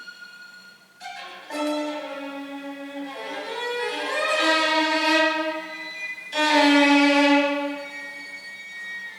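Music: a slow melody on a violin, long held notes that swell and change pitch in steps, loudest near the end.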